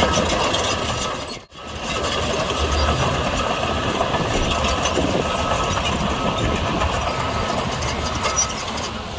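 Diesel engine of heavy earth-moving machinery running steadily. About one and a half seconds in, the sound drops out almost completely for a moment, then returns.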